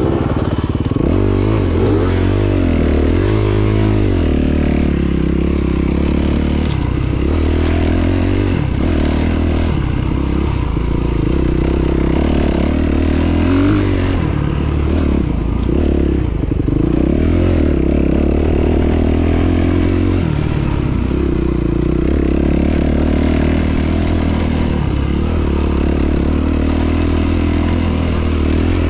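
Enduro motorcycle engine running under load off-road, its revs rising and falling again and again as the throttle is worked.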